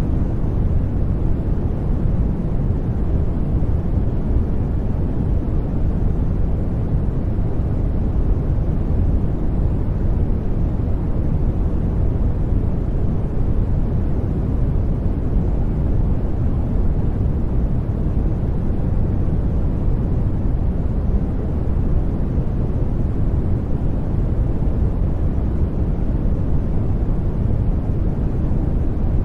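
Continuous noise track sold as white noise: an even, unchanging rush, deep-weighted, with little high hiss.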